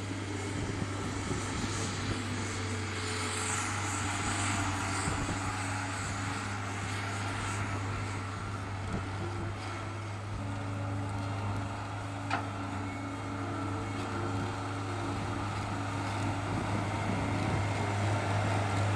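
A steady low engine or motor drone with a wash of background noise, with a couple of faint clicks in the middle.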